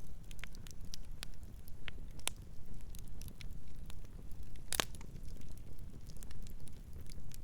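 Campfire crackling: irregular sharp snaps and pops over a low steady rumble, with one loud pop a little past the middle.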